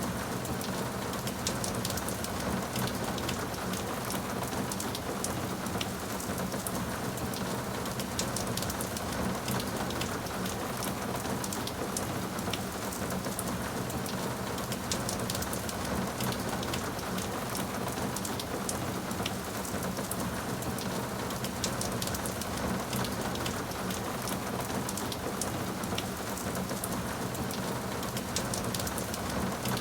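Steady rain falling, a constant hiss with many small drop ticks spattering through it.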